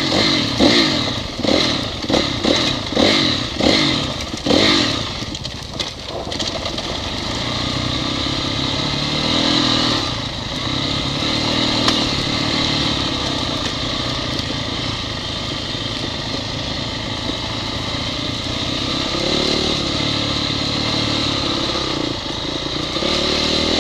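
Honda CRF four-stroke dirt bike engine blipped in a string of about seven short revs over the first five seconds, then running steadily at a roughly even pitch.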